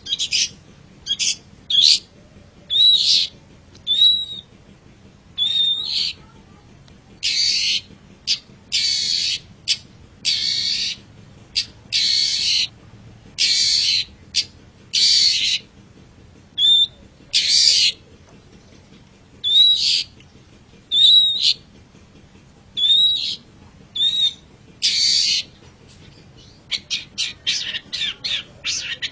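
Long-tailed shrike (cendet) calling: harsh rasping screeches, each under a second, alternating with short slurred whistles. Near the end it breaks into a fast run of short chattering notes.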